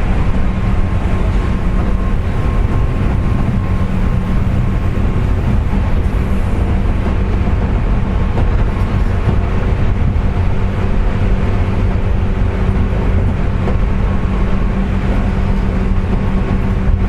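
Onboard running noise of a JR West 201 series motor car cruising at steady speed: wheel-and-rail rumble under a steady whine of unchanging pitch, the 'jet sound' given off by bearings with electrical pitting (electrolytic corrosion).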